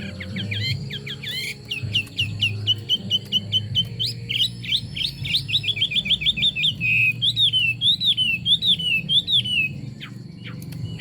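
Chinese hwamei singing a long, varied phrase: quick runs of sharp down-slurred notes and a rapid trill, then a string of looping rise-and-fall whistles, stopping about a second before the end.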